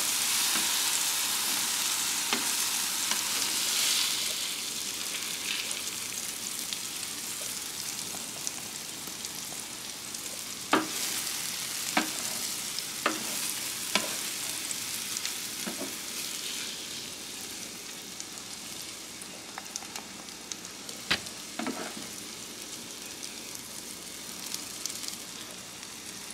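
Sliced mushrooms and onion rounds sizzling on a hot electric griddle, the sizzle slowly fading. Several sharp clicks and scrapes of a spatula on the griddle surface come in the second half.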